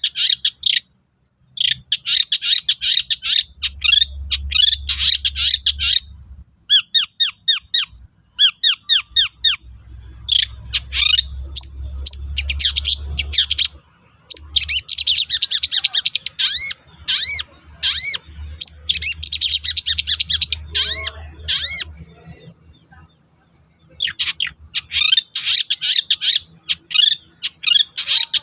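Long-tailed shrike singing in fast, harsh chattering phrases with short pauses between them. About seven seconds in, the chatter gives way to a run of separate downward-sweeping notes.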